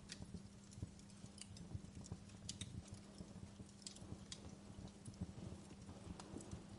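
Wood fire in a fireplace crackling softly: irregular small snaps and pops over a low, steady hum.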